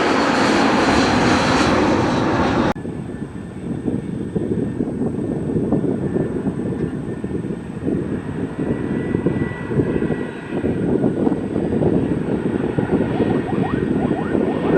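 Jet airliner engines running loud. About three seconds in the sound changes abruptly to a deeper, duller rumble.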